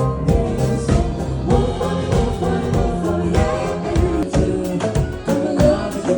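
Live cover band playing a pop song: a steady drum beat with bass and keyboards.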